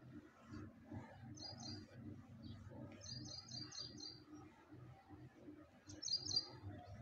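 A small bird chirping in three short rapid runs, the last near the end the loudest, over the soft, regular rubbing of a board eraser wiping a whiteboard.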